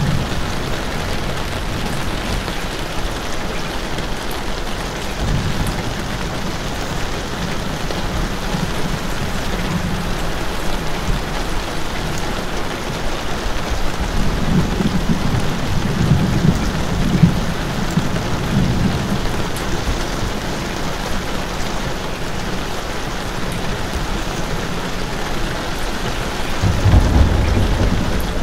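Steady, heavy rainfall hissing evenly. Low rumbles swell up about halfway through and again near the end.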